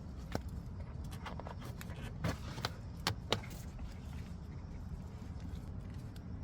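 Scattered sharp clicks and taps of parts being handled, over a low steady rumble; the clicks cluster between about two and three and a half seconds in.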